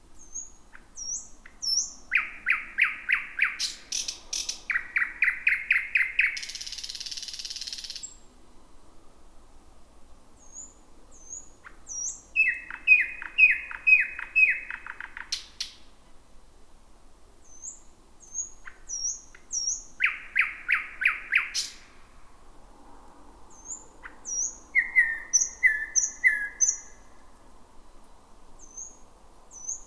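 Thrush nightingale singing: phrases of fast repeated notes and high whistles separated by pauses of a few seconds, with a harsh rattling passage about six seconds in.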